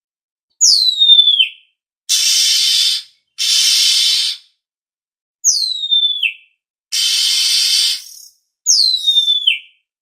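Oriental magpie-robin (kacer) lure call: three falling whistled notes of about a second each, alternating with three harsh, hissing rasps of similar length, with short gaps between.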